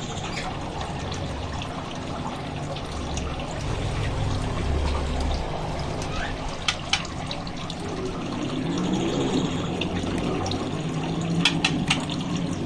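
Steady running or trickling water, with a few sharp clicks near the middle and again near the end.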